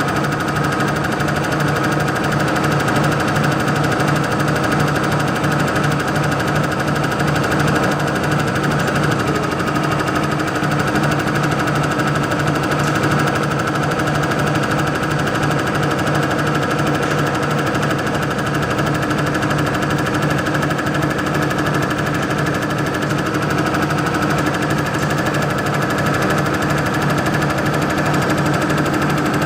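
Unit injector test bench running with a Scania unit injector on it, the injector firing in a fast, steady knocking that does not let up.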